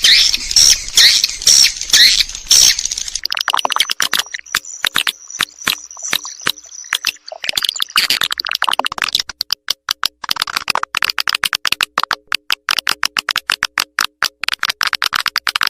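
Swiftlet lure call played back, the recorded twittering and clicking used to draw swiftlets into a nesting house. The first few seconds are quick chirps and twitters. Then come dense, rapid trains of clicks, with a thin high whistle held for a few seconds in the middle.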